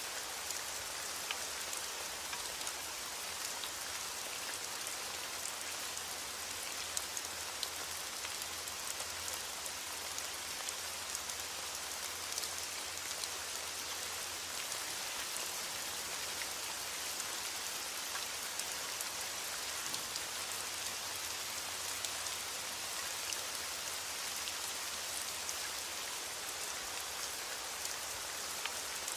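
Heavy rain against a window pane, falling steadily: a dense, even hiss with many small, scattered ticks.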